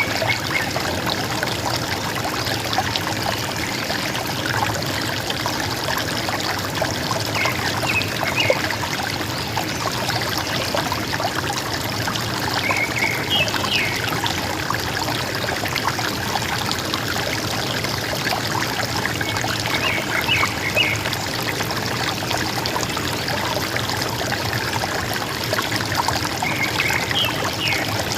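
River water flowing steadily, with a forest bird giving a short burst of a few quick high notes four times, roughly every six to seven seconds.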